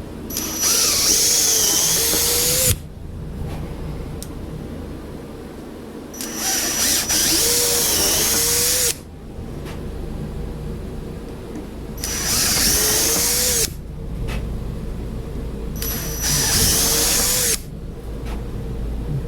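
Electric drill boring holes, run in four bursts of one to three seconds that each stop abruptly, with a high whine while it cuts.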